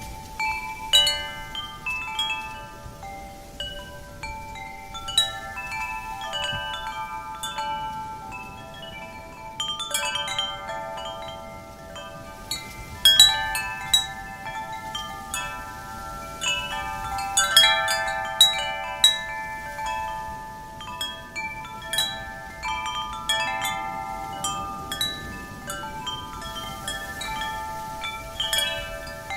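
Wind chimes struck irregularly by the wind, many metal tones ringing and overlapping as they fade, over a faint steady wind hiss.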